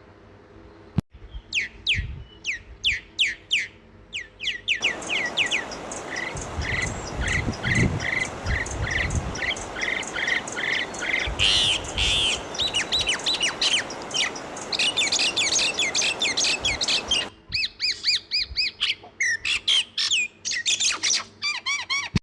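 Birds chirping in fast, repeated high calls, several a second, in a dense chorus. A steady background hiss sits under the calls from about five seconds in until about seventeen seconds in.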